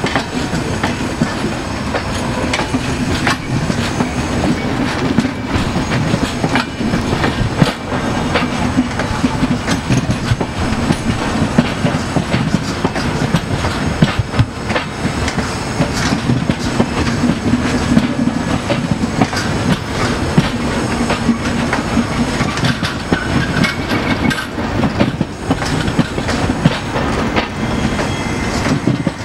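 Indian Railways passenger coaches rolling past close by: a steady rumble with wheels clicking irregularly over the rail joints.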